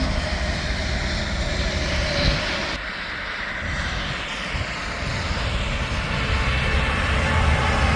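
Heavy traffic on an interstate highway: the steady rush of trucks' engines and tyres going by, easing off about three seconds in and swelling again as another truck approaches.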